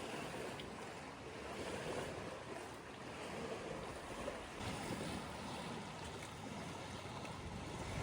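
Small lake waves washing against the shore in an even wash that rises and falls gently, with wind on the microphone.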